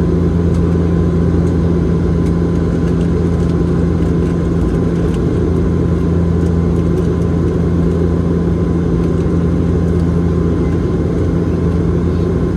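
Steady, even drone of a Bombardier Dash 8-Q400's turboprop engines and propellers heard inside the passenger cabin in flight, with a strong low propeller hum.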